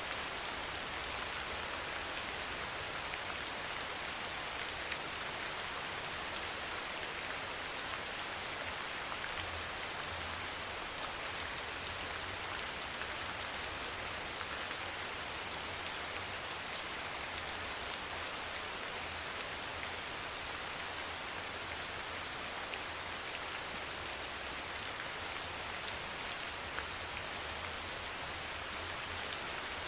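Steady rain falling, an even hiss with scattered faint drop ticks and a low rumble underneath.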